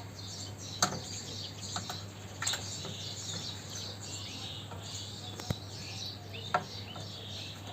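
Small birds chirping steadily in the background, over a low steady hum, with a few sharp clicks or knocks scattered through.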